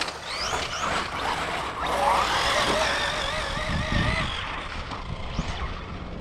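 Electric RC cars' motors whining as they drive on pavement, the pitch rising and wavering with the throttle, loudest in the middle and fading toward the end.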